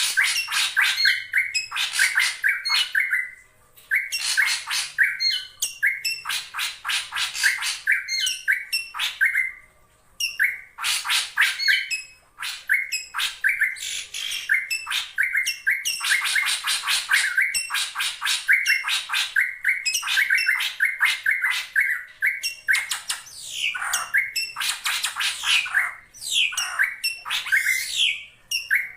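A drongo calling in rapid, dense runs of repeated notes, with short breaks about four, ten and twelve seconds in. It is a lure call of the kind used to draw rival drongos.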